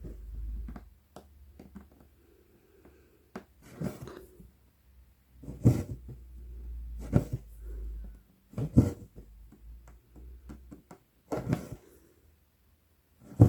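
Cross-stitch needle poking through 11-count Aida cloth and embroidery floss being drawn through it, a short rustling pull about every one and a half to three seconds.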